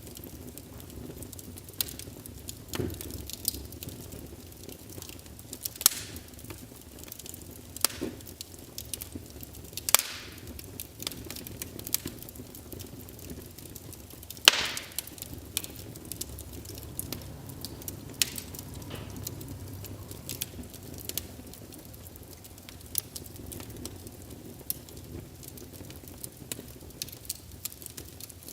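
Burning logs in a fireplace crackling, with irregular sharp pops; the two loudest pops come about ten and fourteen and a half seconds in. Beneath them is a low, steady rumble of the flames.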